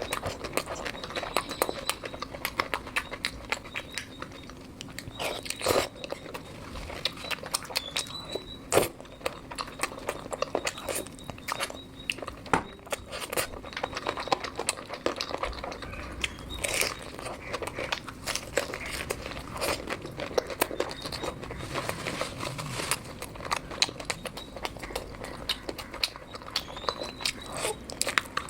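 Close-miked eating of puri and chicken curry: irregular biting, crunching and wet chewing with many small mouth clicks, closely spaced throughout.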